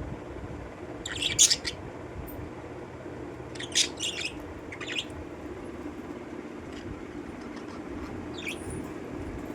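Pet parrots chirping in four short bursts of high calls, the loudest about a second and a half in, over a steady low hum.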